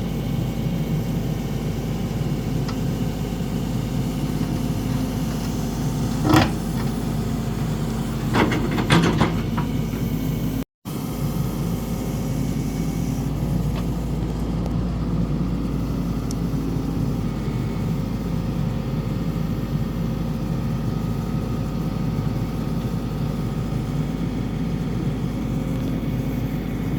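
Excavator engine running steadily while digging, with a few sharp knocks, one about six seconds in and several more around eight to nine seconds.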